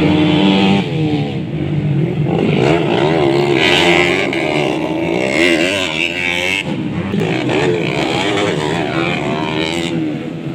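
Modified underbone motorcycle engines revving hard, their pitch rising and falling again and again as the riders work the throttle, with an abrupt change about two-thirds through.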